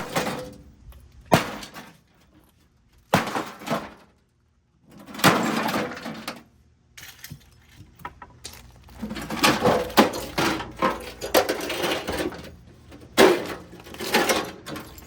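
A microwave oven being smashed apart: a series of sharp impacts with cracking, breaking noises, in scattered hits at first and then clustered, with a brief near-silent pause about four seconds in.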